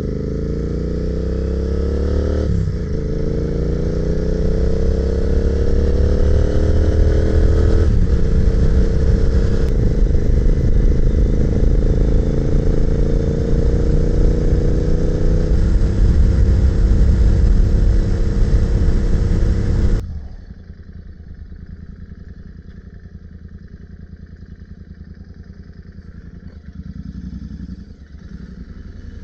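Royal Enfield motorcycle engine pulling away and accelerating, its pitch climbing and dropping back at two upshifts, then running steady at cruising speed. About two-thirds of the way through the sound cuts abruptly to a much quieter, steady engine and road sound.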